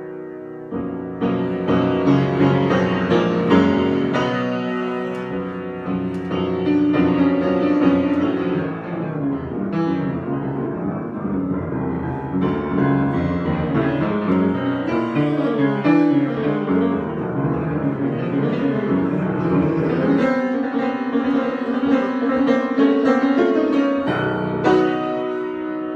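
Solo piano improvisation, with dense moving chords and runs that thin out to a few held notes a few seconds before the end.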